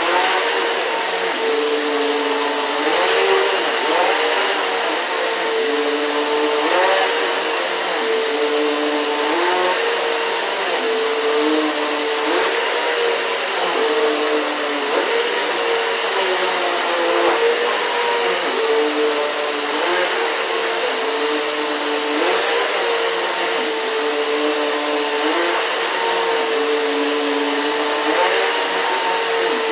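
Eureka PowerSpeed upright vacuum cleaner running steadily with a high whine. Its motor tone dips and recovers about every two seconds as it is pushed and pulled across the floor. A few sharp crunches of debris being sucked up are mixed in.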